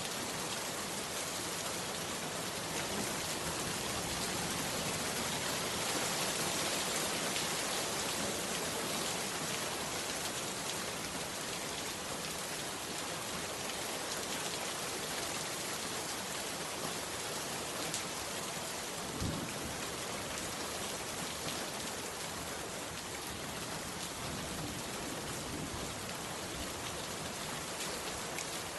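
Heavy rain falling steadily, a dense even hiss of drops on a surface, with one short dull thump about two-thirds of the way through.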